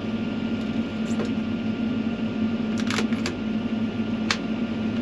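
Fendt tractor's diesel engine idling, a steady hum heard from inside the cab, with a few sharp clicks over it: one about a second in, a quick cluster of three near the middle, and one more past four seconds.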